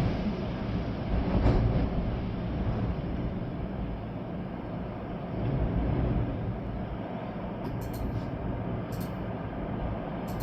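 Storm wind gusting through trees with rain, a steady rushing noise with heavy low rumble that swells about a second and a half in and again around the middle. A few brief ticks near the end.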